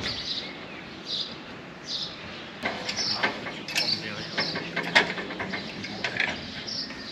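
A small bird chirping repeatedly, a short high chirp about once or twice a second, with a run of knocks and clatter in the middle.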